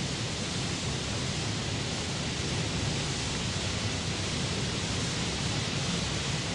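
Steady, even rushing noise of heavy rain, with weight in the low end and no change in level.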